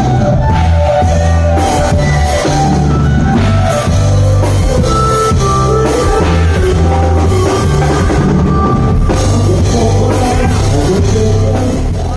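Reggae band music: drum kit, a steady bass line, guitar and singing.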